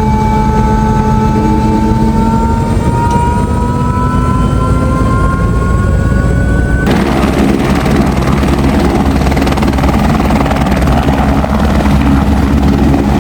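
Helicopter turbine and rotor running from inside the cabin. A whine rises steadily in pitch for about the first seven seconds as the engine spools up, then the sound abruptly switches to a denser, steadier rotor and engine rumble.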